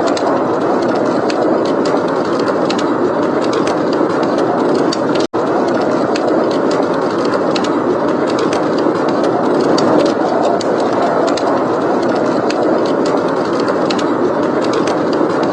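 Steady blizzard wind rushing, with the small sharp pops and crackles of a wood fire scattered over it. A split-second dropout in the sound about five seconds in.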